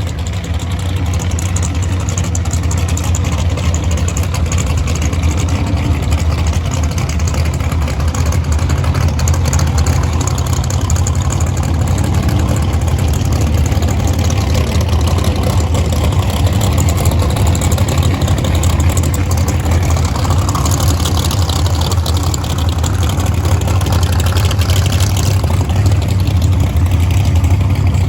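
A vehicle engine running steadily at low speed, with a deep, even hum and no revving.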